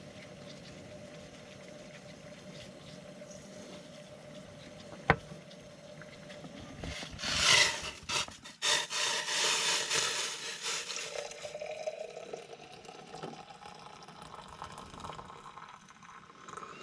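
Hot water poured into a mug in two pours of a few seconds each, around the middle, after a single sharp click about five seconds in over a faint steady hum.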